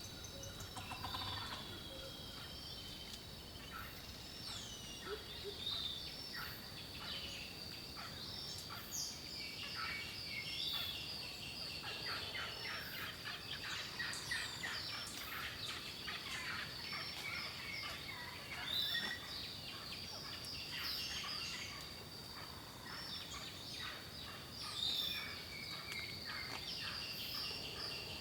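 Birdsong: a dense chorus of chirps, sweeping whistles and rapid trills, over a thin steady high tone.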